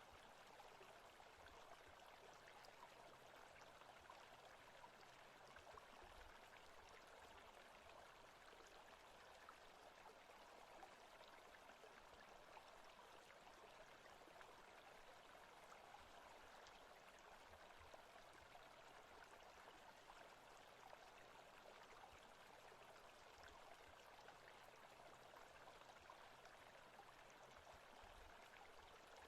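Faint, steady rush of a forest stream's running water.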